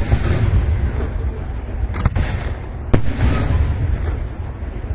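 Fireworks going off: two sharp bangs about two and three seconds in, over a steady low rumble.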